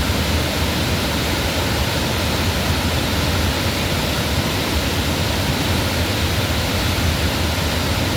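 Waterfall roaring: a loud, steady rush of falling water with no break.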